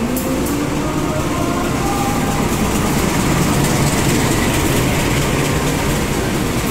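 Diesel locomotive and its passenger coaches rolling past close by, a steady engine rumble with wheel and rail noise. It grows loudest about three to four seconds in as the locomotive goes by.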